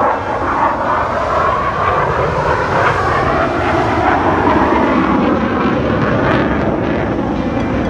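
Jet aircraft engine noise, loud and steady, starting suddenly.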